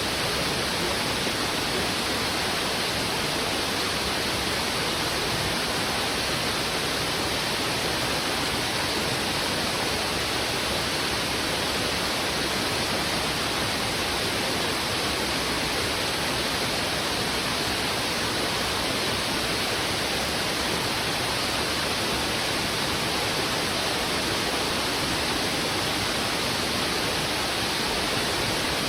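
River water rushing steadily over rocks in a strong current, a constant even rush with no breaks.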